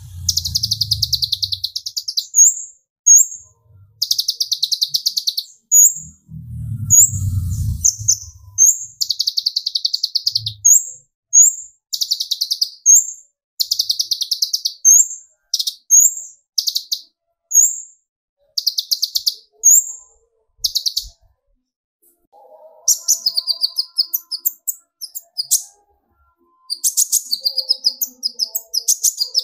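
Brown-throated sunbird (kolibri ninja) singing: fast buzzy trills about a second long, alternating with short rising whistled notes, the excited 'tembakan' song. A low rumble sounds briefly at the start and again about seven seconds in.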